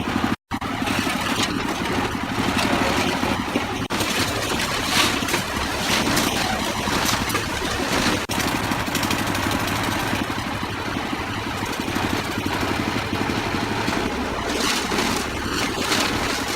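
An engine running steadily, cut off for a moment about half a second in.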